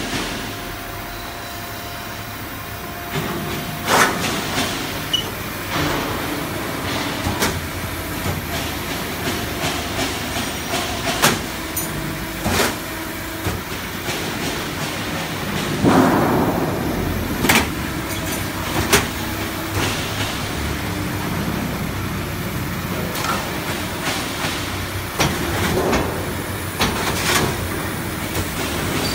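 Automatic HVAC duct production line running: a steady machine hum broken by sharp metallic clanks and knocks every one to four seconds.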